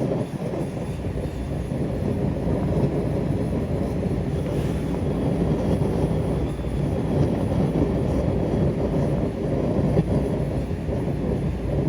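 A forge running with a steady, even rumble while the welded cast-steel compound rest is brought up to heat.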